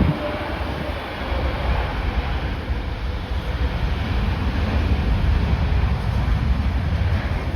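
Strong wind buffeting the microphone in gusts over the steady rumble of jet airliner engines.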